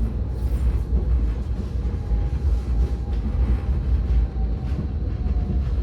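Tram running, heard from inside the car: a steady low rumble with a thin electric whine that comes in about two seconds in and drops slightly in pitch near the end.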